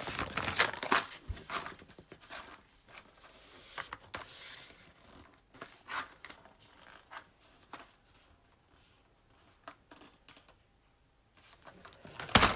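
Rustling, light clicks and scrapes as coffee capsules and their packaging are handled at the machine, busiest in the first few seconds and quieter later, with a sharper click near the end.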